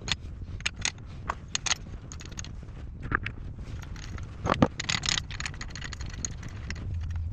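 Metal parts and hand tools clinking, knocking and scraping while a hydraulic box is worked on: a string of sharp clicks, with one louder knock about halfway through followed by a brief scrape.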